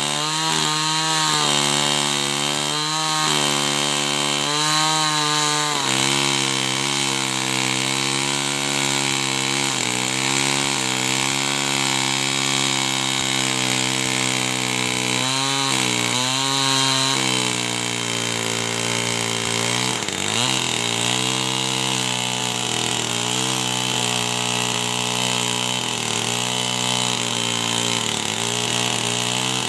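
Two-stroke chainsaw running near full throttle and cutting wood. Its engine pitch sags and recovers several times in the first few seconds and again midway, then holds steady.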